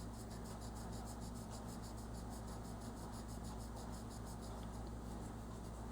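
Crayon or pencil scratching on paper in quick, even back-and-forth colouring strokes, over a steady low hum.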